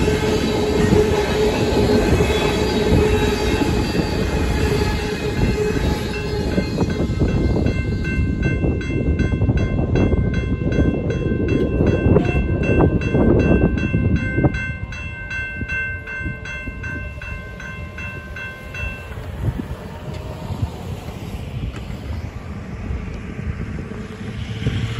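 A freight train of tank cars rolling past over the crossing with steady wheel squeal, while the crossing's warning bell rings in a steady rhythm. The train noise drops off about halfway through as the last car clears. The bell stops a few seconds later.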